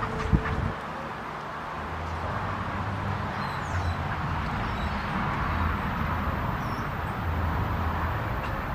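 Steady outdoor background noise with a pulsing low rumble, and a few faint, short high chirps from small birds at a feeder.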